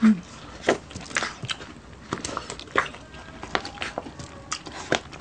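Close-miked eating of crispy pork sisig: chewing and crunching with irregular sharp crackles and wet smacks.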